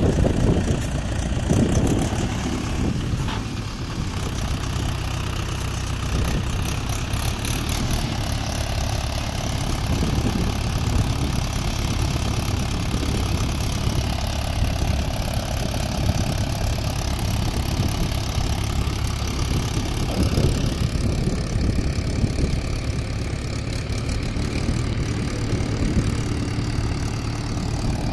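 Mahindra 475 DI tractor's four-cylinder diesel engine running steadily.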